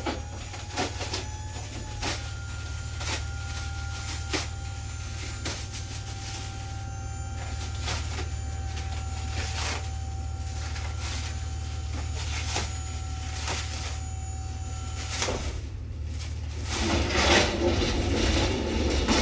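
An idling vehicle engine gives a steady low hum, while a steady whine runs alongside it and cuts off suddenly about 15 seconds in. Scattered clicks and knocks sound throughout, and a louder rustling, scraping noise comes near the end.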